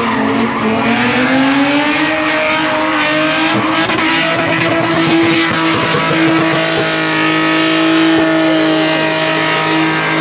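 A car engine held at high, steady revs, rising in pitch over the first couple of seconds, with tires squealing as the car drifts at the takeover.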